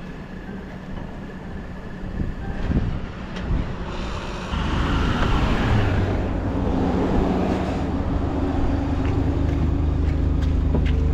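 An engine running, joined about four and a half seconds in by a louder, steady low drone after a brief surge.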